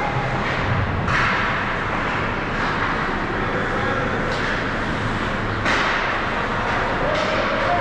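Ice hockey game in a rink: a steady wash of skating and crowd noise, broken by a few sharp knocks of puck or sticks against the boards, the loudest about a second in and again near six seconds.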